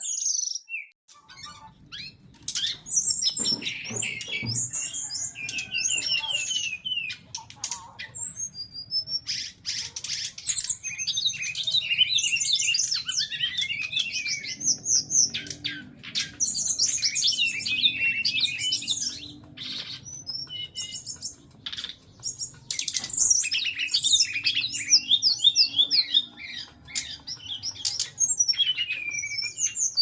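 SRDC (brown-chested jungle flycatcher) singing in long runs of rapid, varied chirps and sharp notes, broken by short pauses, over a faint low hum.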